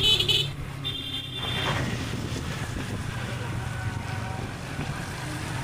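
Motorbike engine running steadily, with wind noise on the microphone. A snatch of high-pitched music ends about a second and a half in.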